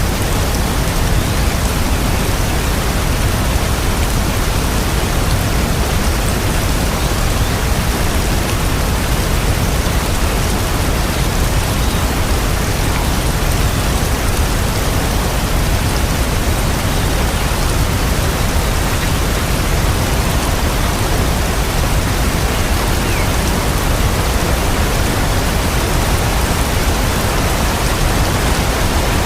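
Steady rain falling, a continuous even hiss of drops with a strong low rumble beneath it and no distinct drops or thunder standing out.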